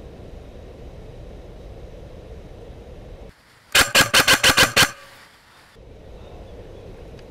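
Airsoft electric rifle firing a quick burst of about eight or nine shots over about a second, a little past the middle, over a steady low outdoor background.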